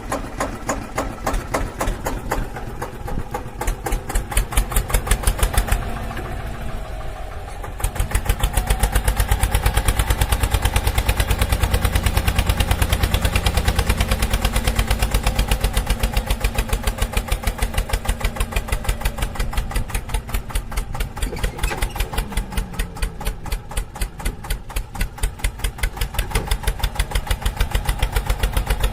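Tractor engine running with a steady rapid beat, growing louder and heavier about eight seconds in and staying that way.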